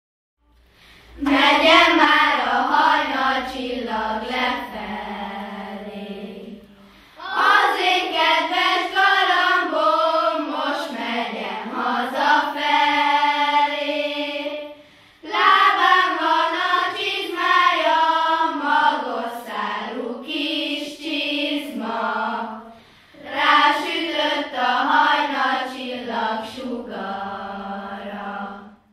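Children's school choir singing together, in four phrases of several seconds each with short breaks between them, the first starting about a second in.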